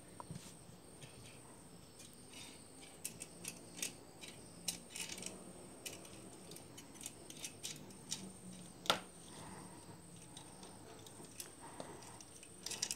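A small 12 cm cooling fan running with a faint steady low hum, amid scattered light clicks and taps of handling. The sharpest click comes about nine seconds in.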